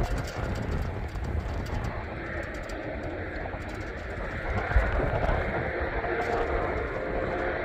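Freight train rolling past, its wheels and cars giving a steady rumble and clatter, with one heavier thump about two-thirds of the way through.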